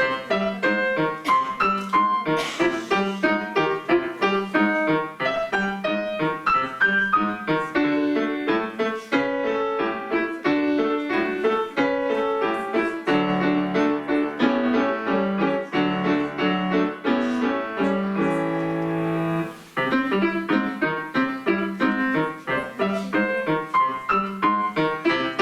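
Piano duet playing a march with quick, detached notes. About halfway through it moves into a stretch of held chords, breaks off for a moment, then the quick notes resume.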